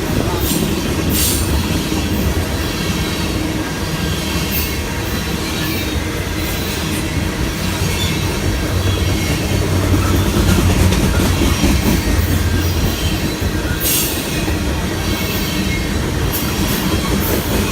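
A train running past close by: a steady low rumble, with a few brief high squeals from the wheels on the rails.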